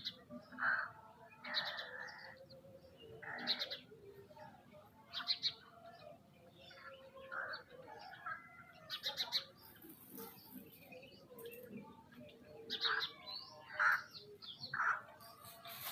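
Several birds chirping and calling in short, irregular calls, with a busier run of calls near the end.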